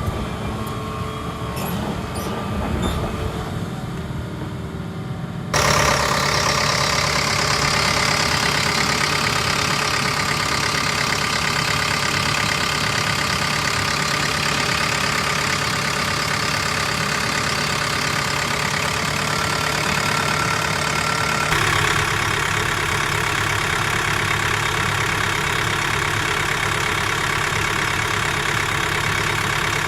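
Hitachi ZX85US-3 midi excavator's diesel engine running steadily. It is heard in separate clips cut together: quieter with a few clicks at first, then abruptly louder about five seconds in, with another sudden change in tone about two-thirds of the way through.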